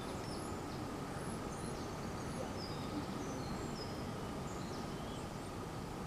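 Outdoor ambience with faint birdsong: short high chirps scattered throughout over a steady background noise.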